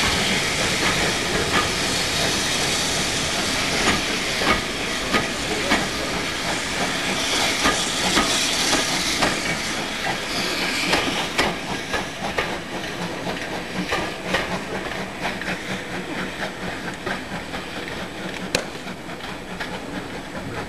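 A steam-hauled passenger train's carriages rolling past on the rails, wheels clicking over the rail joints, the sound fading steadily as the train draws away.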